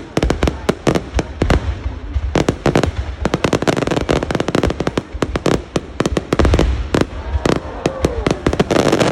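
Fireworks display: a fast, dense run of sharp cracks and bangs, with heavy low booms here and there.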